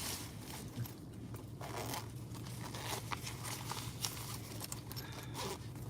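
Low steady hum of a car idling, heard from inside the cabin, with scattered rustling and small clicks from something being handled.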